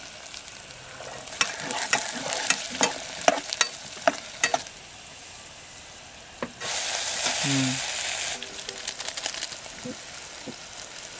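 Food sizzling in a pan while it is stirred with a spoon, its clicks and knocks against the pan coming in quick runs. For about two seconds in the middle a louder hiss rises and then drops back.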